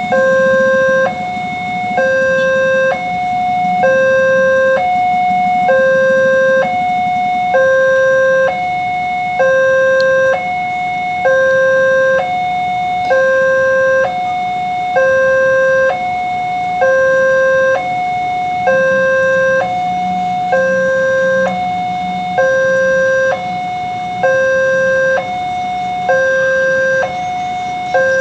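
Indonesian railway level-crossing warning alarm, an electronic two-tone signal alternating evenly between a low and a higher tone, switching about every three-quarters of a second, warning that a train is approaching.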